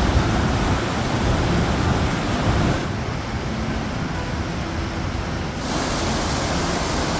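Waterfall rushing: a steady, dense roar of falling water. Its tone changes abruptly twice, about three and five and a half seconds in.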